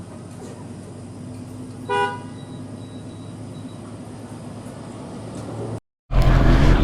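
Steady low drone and rushing noise of a motorcycle on the move, with one short, high horn toot about two seconds in. Near the end the sound cuts out completely for a moment, and a much louder voice starts.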